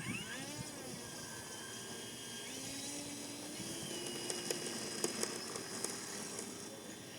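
Electric motor and propeller of a large RC Cessna 182 model, powered by a 6S pack, spooling up for takeoff: a whine that rises sharply as the throttle opens, then climbs slowly in pitch as the plane gets under way.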